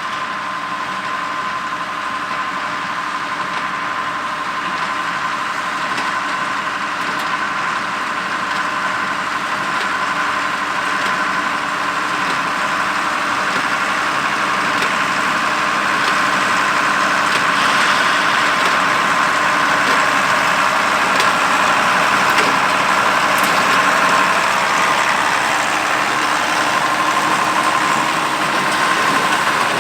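Allis-Chalmers 200 tractor's turbocharged six-cylinder diesel engine running steadily under load while pulling a square baler, growing gradually louder.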